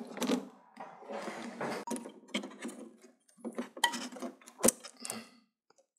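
Handling noise from a flat-screen TV being taken apart: irregular rustling scrapes of plastic casing with scattered clicks and knocks, two sharp clicks a little over halfway through.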